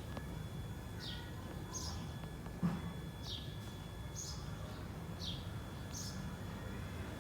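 A bird calling repeatedly: short high notes alternating with quick downward-slurred notes, about one a second, over a steady low outdoor hum. A single dull thump about two and a half seconds in.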